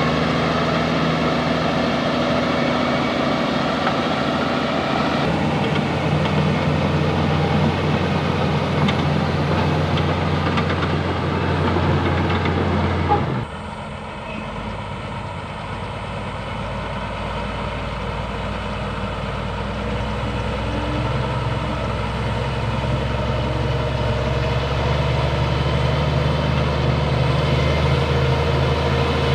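Bulldozer's diesel engine running steadily. About halfway through the sound drops suddenly, then slowly builds back up.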